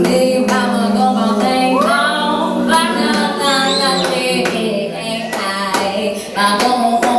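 A voice singing a wordless melody: a long held note that glides upward about two seconds in, then moves on through a sung line. Sharp percussive hits come now and then.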